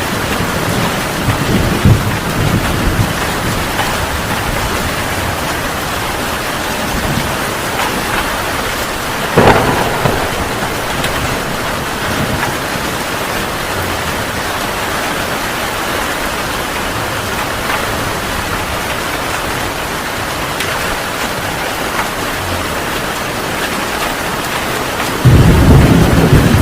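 Heavy rain falling steadily, with thunder: low rumbling in the first few seconds, a sharp crack about nine seconds in, and a loud rumble breaking in near the end.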